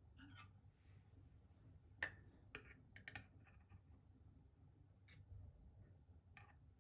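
Quiet room tone with a handful of light taps and clinks from small objects being handled, the sharpest about two seconds in and a few more scattered after.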